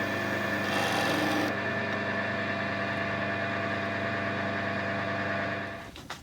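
Wood lathe motor running with a steady hum, a tool briefly working the spinning oak finial about a second in with a rough hiss. Near the end the lathe is switched off and the hum dies away, followed by a click.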